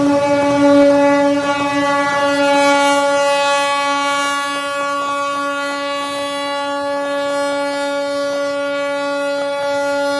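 A ship's horn sounding one long, steady blast at a single pitch. A rushing noise beneath it dies down over the first couple of seconds.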